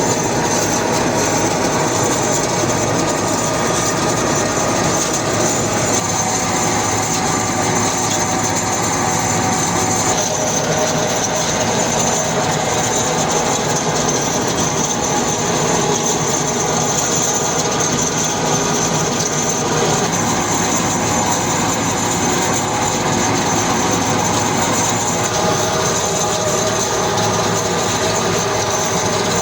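Industrial plastic-processing machinery running steadily and loudly, with a constant high whine over a mechanical rumble.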